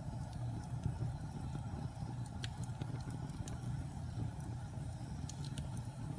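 Wood fire burning in a fireplace: a steady low rumble of the flames with a few scattered sharp crackles and pops.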